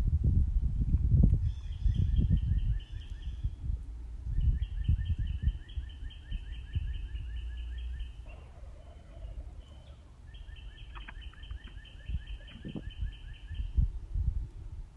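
A small songbird singing a rapid trill of repeated notes, three times with pauses between, over a louder, uneven low rumble.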